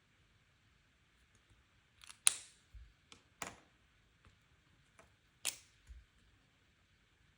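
Sharp, separate clicks and taps from planner stationery being handled: a quick cluster about two seconds in, the loudest of them, and a few more around five to six seconds.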